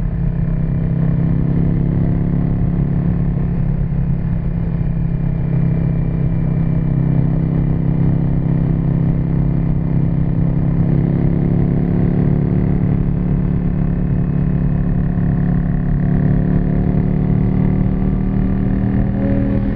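1991 Yamaha XV535 Virago's air-cooled V-twin running through a custom exhaust at fairly steady revs, with slight rises and dips in pitch.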